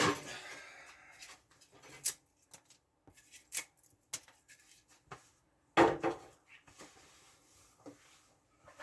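Scattered light knocks and clicks of things being handled, with one louder burst about six seconds in.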